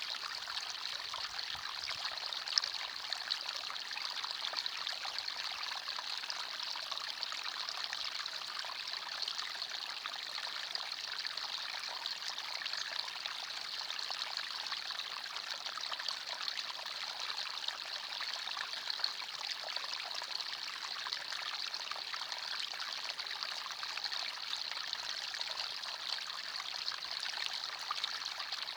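Small forest stream flowing and trickling over stones, a steady bright babble of water with occasional small splashes.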